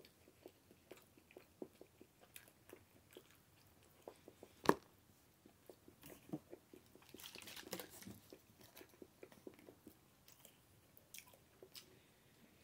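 A person chewing a mouthful of a microwaved roast beef and cheddar melt sandwich: faint, irregular soft mouth clicks, with one sharper click a little under five seconds in.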